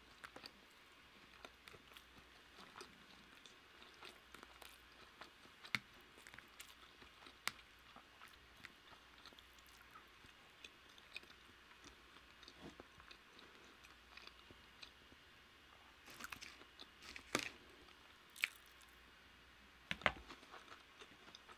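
Faint, close-miked chewing and wet mouth sounds of a person eating soft food. A few sharp cutlery clicks stand out, mostly near the end.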